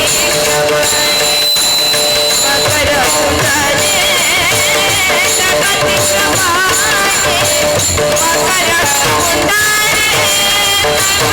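Marathi kirtan devotional music: a singing voice with a strong vibrato over steady held drone notes, with jingling hand cymbals and a drum keeping the beat.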